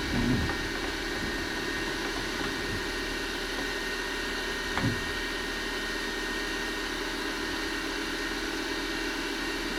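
Manual milling machine running steadily, its spindle turning a drill bit for drilling holes in aluminium, with a brief faint sound just after the start and another a little under five seconds in.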